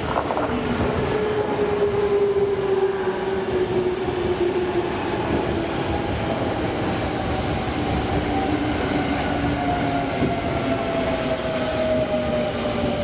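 Electric commuter train running past and slowing into the station: wheels rumbling on the rails under a whine that falls steadily in pitch as the train slows.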